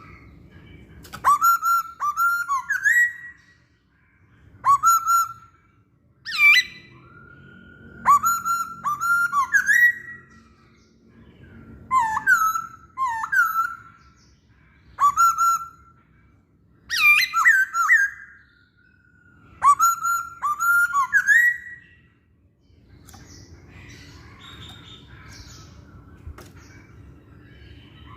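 Masked laughingthrush singing: loud, ringing bursts of a few quick rising whistled notes, repeated about eight times with short pauses, then quiet for the last few seconds.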